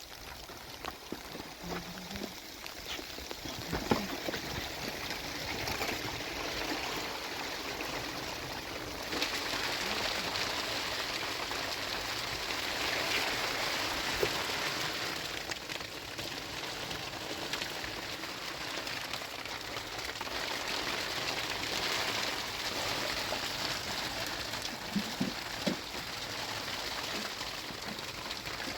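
Steady patter of rain on a surface, growing louder about nine seconds in, with a few faint knocks.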